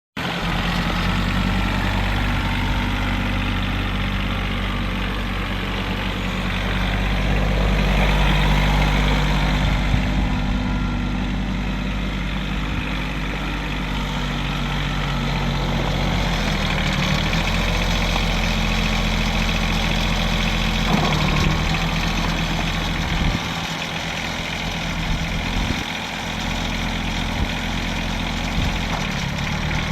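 Kubota B5200 compact tractor's small three-cylinder diesel engine running steadily, its note shifting a few times from about halfway through.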